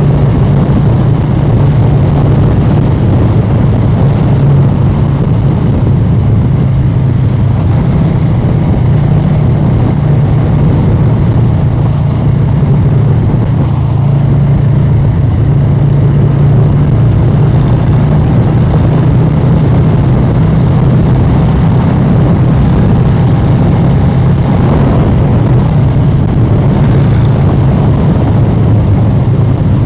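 Harley-Davidson Street Bob 114's Milwaukee-Eight 114 V-twin running loud through an aftermarket SP Concepts exhaust while the bike cruises at a fairly steady speed.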